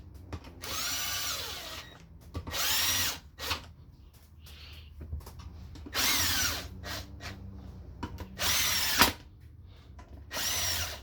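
Power drill run in about five short bursts, its motor whine rising and falling with each squeeze of the trigger, driving down the valve-body bolts on a Honda automatic transmission.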